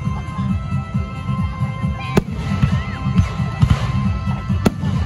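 Fireworks display: a dense, continuous low rumble of shells launching and bursting, with sharp cracks about two seconds in and again near the end. Music plays along with it.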